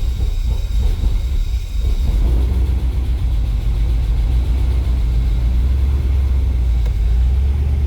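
LS V8 engine idling just after a cold start at 28 degrees on thick 15W-50 oil, uneven for the first couple of seconds and then steadier; not too happy.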